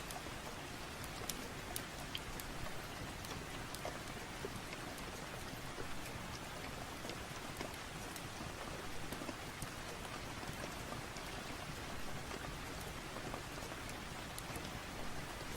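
Steady rain falling, with scattered sharp little crackles from a wood fire in a fireplace.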